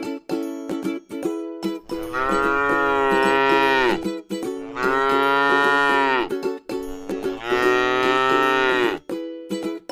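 A cow mooing three times, each a long, drawn-out call that drops in pitch at the end, over plucked-string background music.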